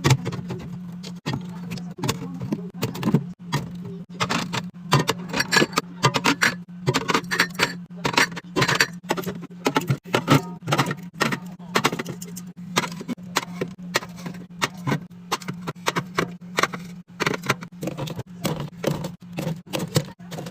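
Rapid, irregular clicks, clinks and knocks of drink cans, bottles and packaged snacks being handled and set into a mini fridge while it is restocked. A steady low hum runs underneath.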